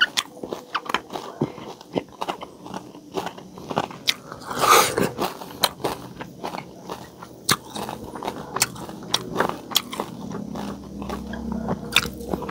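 Close-miked chewing and crunching of crispy deep-fried pork knuckle (crispy pata), full of short wet mouth clicks, with one louder mouth noise about five seconds in.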